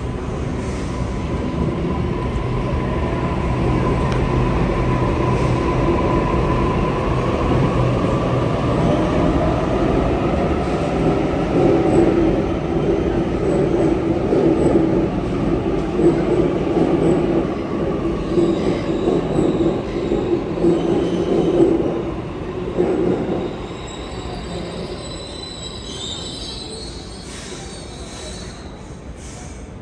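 Sydney Trains double-deck electric train moving through the platform. A motor whine glides in pitch while the rumble builds to its loudest in the middle, then high wheel squeal comes in later as the sound fades.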